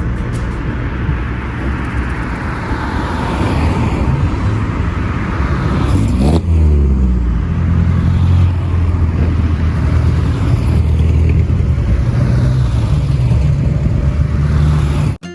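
Datsun 510 Bluebird driving on the road, its engine running steadily under way; the engine note shifts about six seconds in.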